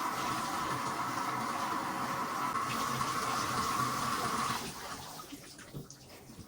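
Water running steadily from a tap, shut off about four and a half seconds in, then a few faint drips and ticks.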